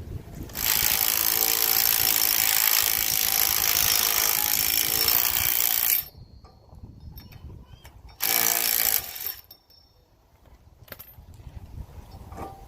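Impact wrench running in two bursts: one of about five seconds, then a short one of about a second.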